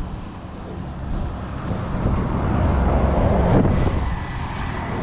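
Wind buffeting the microphone over the low rumble of a passing vehicle, swelling about two seconds in and easing slightly near the end.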